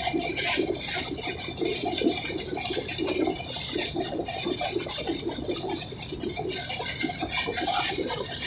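Kaifiyat Superfast Express running along the track: a steady rushing hiss over an uneven rumble of wheels on rails.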